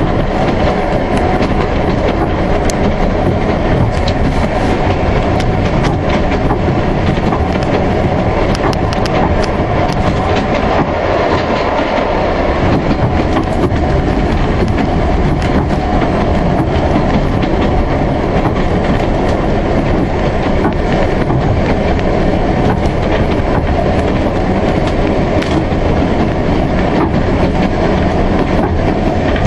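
Isle of Man Railway narrow-gauge steam train carriage running along the line, heard from on board: a loud, steady rumble of wheels on track with frequent clicks and clacks.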